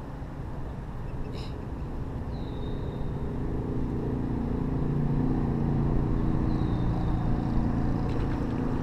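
A motor running with a steady low hum that grows louder from about halfway through, over a constant low rumble.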